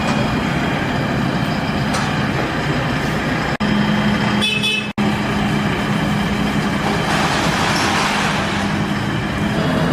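Diesel engine of a JCB backhoe loader running steadily. The sound drops out briefly twice, about three and a half and five seconds in, with a short high tone just before the second dropout.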